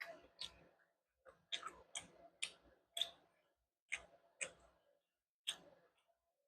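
Close-up eating sounds: a dozen or so sharp, irregular mouth clicks and smacks of chewing, some in quick pairs, with short silent gaps between.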